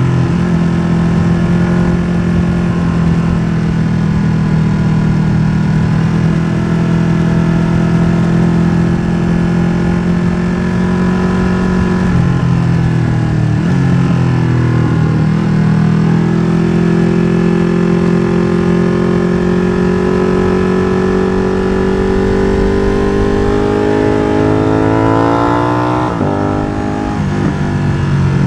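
Ducati Streetfighter V2's 955 cc L-twin with an open MIVV exhaust (no dB killer) running hard on track. The engine note falls and stutters around halfway through, then climbs steadily for several seconds and drops sharply at a gear change near the end.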